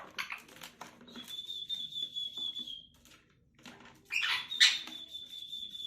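Pet parrot clicking and chattering, then holding a long steady high whistle about a second in; near the end a harsh squawk runs into a second held whistle.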